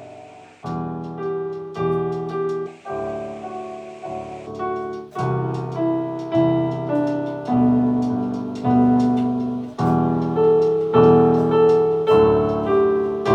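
Piano playing an instrumental passage of a slow worship song: chords struck about once a second, each ringing and fading, growing louder toward the end.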